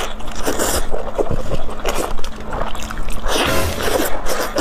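Close-miked eating sounds: irregular chewing and biting into hand-held lamb ribs, over background music.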